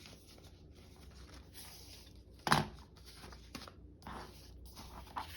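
Sheets of paper being handled and shifted on a work table, with one sharp knock about halfway through.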